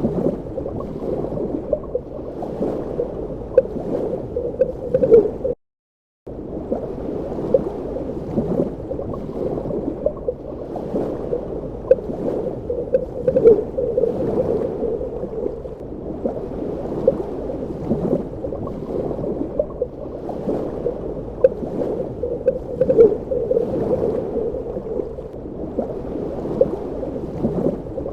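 Underwater ambience: a muffled, steady water rush with frequent small bubbling pops and clicks. The sound cuts out completely for under a second about six seconds in.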